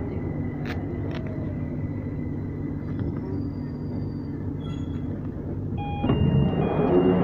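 2009 Stock Victoria line train braking into a station: a steady running rumble, with a motor whine falling in pitch in the first second or so. About six seconds in, a series of short electronic beeps sounds as the train comes to a stop, typical of the door-opening alert.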